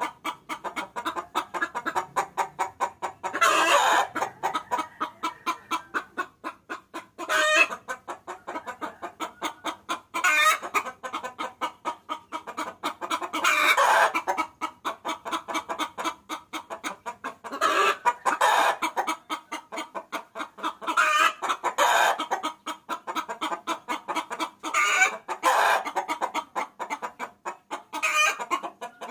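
Hen cackling: a fast run of clucks, several a second, broken every three to four seconds by a louder, drawn-out call. It is a hen's call to a rooster, of the kind used as a lure to draw cocks in.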